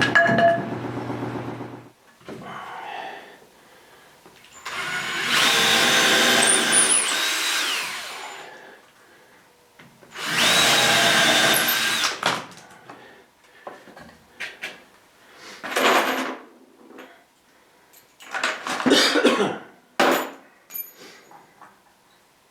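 Power drill running into 2x2 lumber in two long runs of a steady whine, the first lasting about four seconds and the second about two. A few short knocks and rattles follow in the second half.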